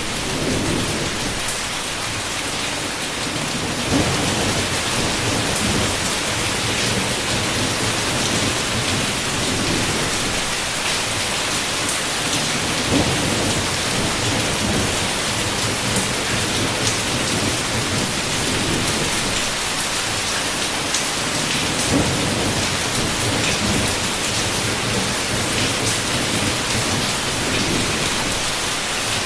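Heavy rain pouring steadily, with low thunder rumbling up a few times.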